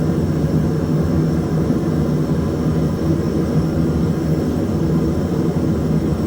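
A forge running with a steady, unbroken roar.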